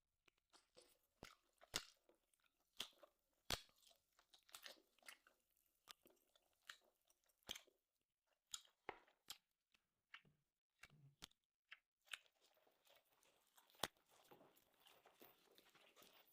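A person chewing steak close to the microphone: quiet, irregular crunches and wet mouth clicks.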